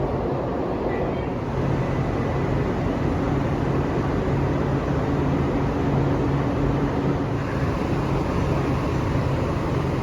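LA Metro B Line subway train rumbling in an underground station, a steady low noise with a held low hum.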